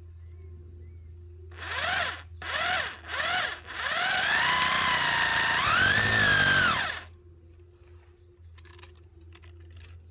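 An animal calling: three short cries that each rise and fall in pitch, then one long drawn-out cry of about three seconds.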